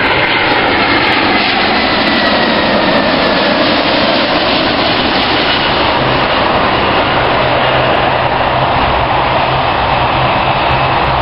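Jet airliner's engines at takeoff power, a loud steady roar. A thin whine slides slightly down in pitch over the first few seconds.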